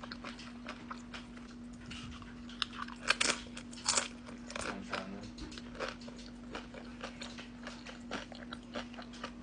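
A person eating Chipotle food close to the microphone, biting and chewing in a run of short wet clicks and smacks, loudest about three to four seconds in.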